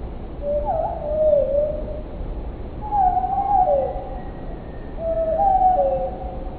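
Bird song played slowed down, so it comes out as low whistled phrases: three phrases about a second long, each sliding down in pitch, over a steady low rumble.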